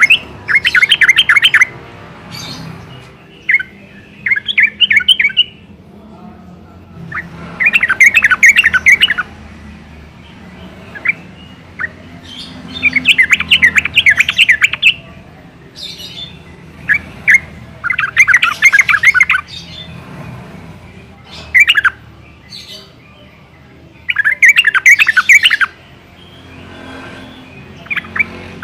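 Yellow-vented bulbul singing: about six bursts of rapid, chattering notes, each a second or two long, repeated every few seconds, with single short calls in between.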